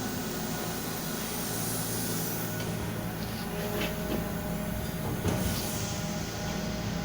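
Toyota 3S-FE 2.0-litre inline-four engine idling steadily, with a few short clicks or knocks near the middle, the loudest about five seconds in.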